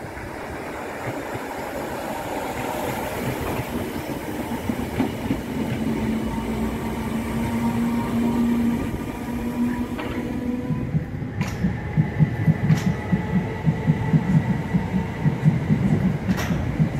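Southern electric multiple-unit trains passing close by. A steady hum, growing louder, comes from a Class 313 unit. About two-thirds of the way in it gives way to rhythmic wheel clatter with several sharp clicks as wheels cross rail joints.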